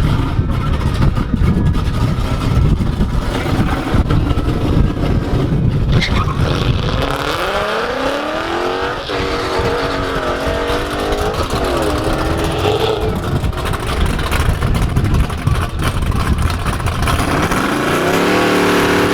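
Car engine accelerating hard at a drag strip: a loud low rumble, then the engine note climbs, drops back at a gear shift, climbs again and drops at the next shift before levelling off, and rises once more near the end.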